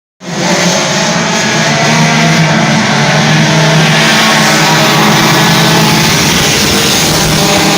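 Race car engines running at high revs, a loud steady drone that holds without letup.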